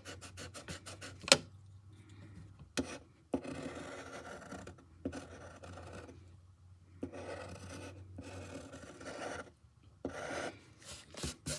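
A drawing tool scratching on paper, drawing in lines: a quick run of short strokes near the start, then several longer, drawn-out strokes.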